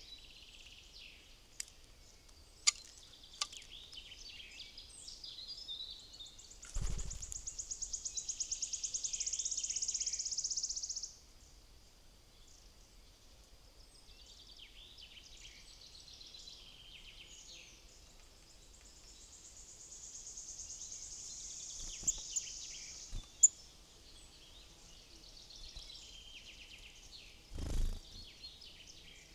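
Wild songbirds chirping and calling at a woodland feeder, with many short high notes throughout and twice a long, rapid, high trill of several seconds. A few sharp clicks and two low thumps, one about seven seconds in and one near the end, break through.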